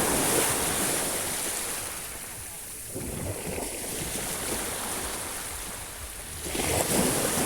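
Sea waves washing onto the shore. The wash swells at the start, again about three seconds in, and again near the end.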